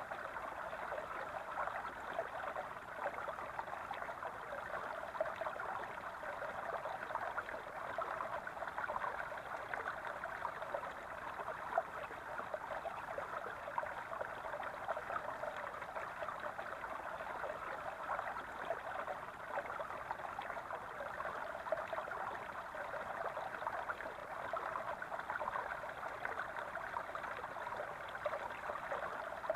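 Small brook babbling steadily, water gurgling over stones.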